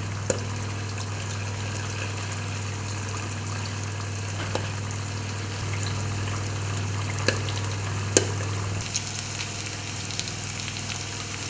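Battered Arctic char pieces deep-frying in hot oil, with potatoes frying alongside: a steady sizzle with a few sharp pops. A steady low hum runs underneath.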